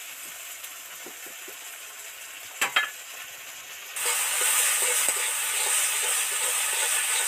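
Onion-tomato masala with ginger-garlic paste sizzling in a kadai while a spatula stirs and scrapes it as it fries down. A sharp clink sounds about two and a half seconds in, and the sizzle becomes much louder just past the middle.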